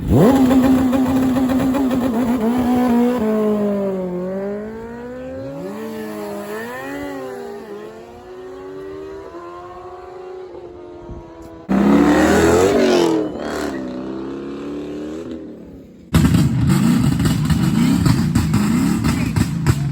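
Car engines revving hard in a few short cuts. First a high rev is held for a couple of seconds, then the engine pitch rises and falls as the throttle is worked. A dense, loud engine sound near the end.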